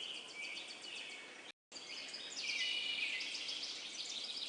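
Outdoor nature ambience of many small birds chirping and trilling, high-pitched, with insect-like chirps. It cuts out completely for a split second about one and a half seconds in, then resumes.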